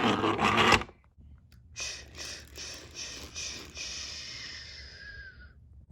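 Steam locomotive sound effect: a short loud hiss, then a run of rhythmic chuffs, a little under three a second, fading as the engine moves off.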